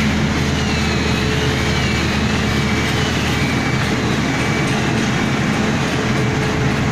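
Heavy boat-launching machinery with its engine running steadily, a low drone with a faint high whine that wavers up and down in the first few seconds.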